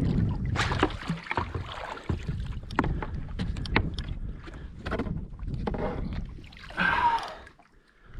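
Irregular knocks, clicks and water splashing on a kayak as a freshly caught ono (wahoo) is handled, with a louder burst of noise near the end.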